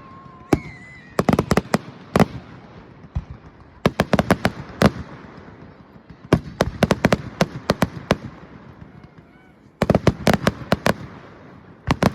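Fireworks going off in rapid volleys of sharp cracks and pops, several clusters a couple of seconds apart with short lulls between.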